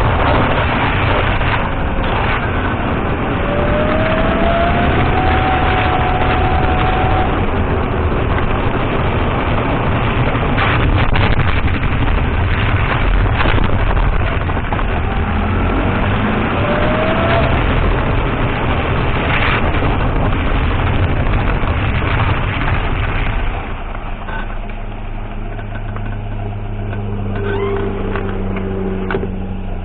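Datsun on-DO driving, heard from inside: steady road and tyre rumble, with a few sharp knocks from the suspension over bumps. About three quarters of the way through the noise drops to a quieter, steady engine hum as the car slows.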